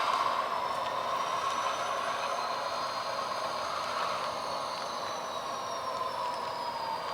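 HO scale GP38 model diesel locomotive backing slowly with its cars: the locomotive's diesel engine sound plays through its small onboard speaker, over a thin whine that slowly rises and then falls in pitch.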